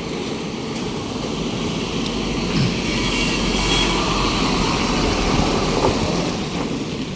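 Road traffic: a steady rush of passing vehicles that swells through the middle and eases near the end.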